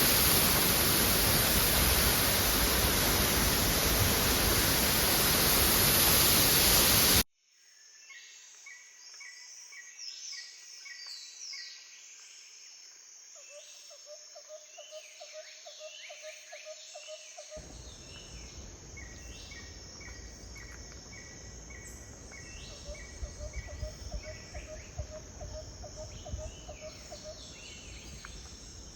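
Waterfall rushing loudly and steadily, cutting off abruptly about seven seconds in. Then birds call, with repeated short chirps and quick falling whistles, and a low trill comes and goes. A soft low rush of background noise returns about halfway through.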